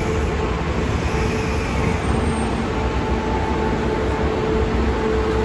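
Train noise: a steady low rumble with a constant hum.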